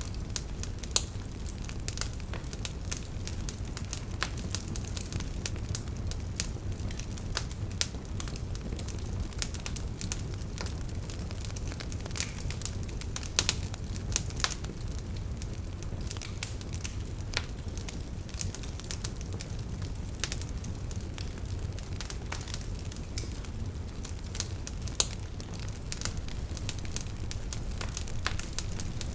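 Campfire of burning firewood crackling, with a steady low roar of the flames under many sharp pops and snaps, a few louder than the rest.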